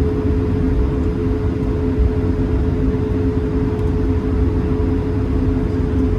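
Cabin noise inside an Airbus A220-300 on the ground with its Pratt & Whitney PW1500G engines at idle: a steady low rumble under a constant two-note hum, with no spool-up.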